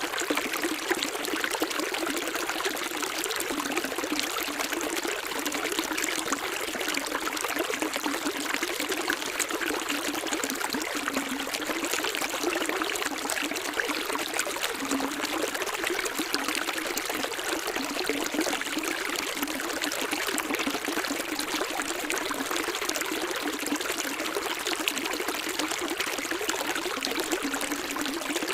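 Running water trickling and splashing in a steady, unbroken flow, like a small stream.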